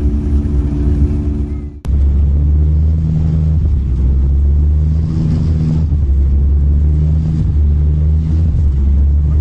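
Steady, loud low engine rumble heard from inside a moving vehicle. It drops out briefly about two seconds in at a cut, then carries on.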